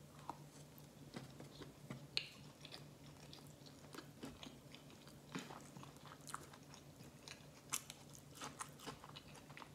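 Close-miked chewing of a mouthful of sushi roll: faint, irregular wet clicks and smacks of the mouth, with no talking.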